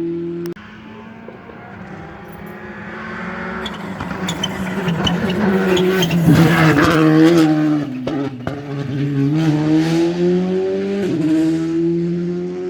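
Rally car on a special stage, engine rising as it approaches and loudest at about six to seven seconds with tyre noise and crackles. The engine pitch then swings through gear changes and steadies near the end.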